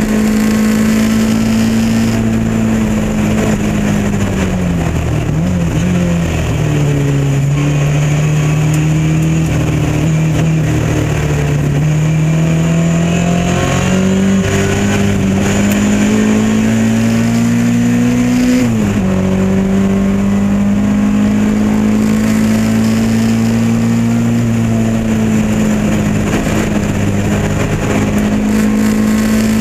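Lotus Elan Modsports race car's engine under racing load, heard from on board. The revs fall as the car slows about five seconds in, climb steadily through one gear, then drop sharply at an upshift about two-thirds of the way through and hold steady.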